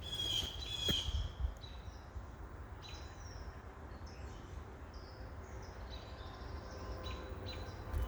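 Footsteps on wet, muddy ground for about the first second, then wild birds calling with short, repeated high chirps over a low outdoor rumble.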